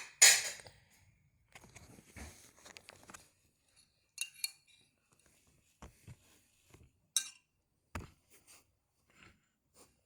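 Light clinks and knocks of small hard objects being handled, like dishes or utensils, with a louder clatter at the start and scattered single taps after it.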